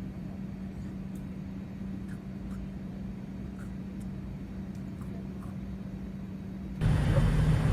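Steady droning hum of a running vehicle heard from inside, with a constant low tone and a few faint ticks. It jumps abruptly louder, with a slightly lower tone, near the end.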